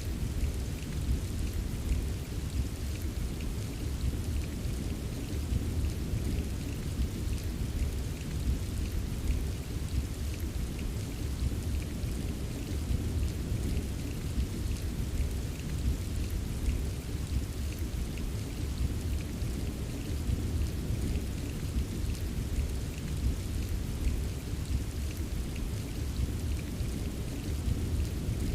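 Steady rain falling, a continuous hiss with fine pattering drops and a deep, even rumble underneath.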